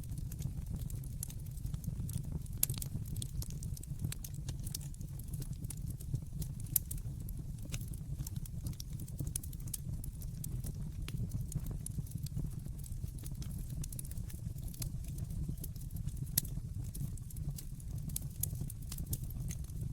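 Wood fire burning in a fireplace: a steady low rumble of flame with frequent small, sharp crackles and pops, about three of them louder than the rest.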